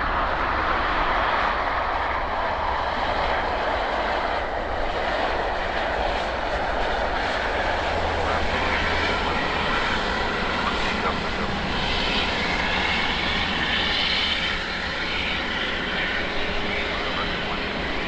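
Airbus A350-941 jet airliner's engines running with a steady rushing noise, a faint high whine rising over it about two-thirds of the way through.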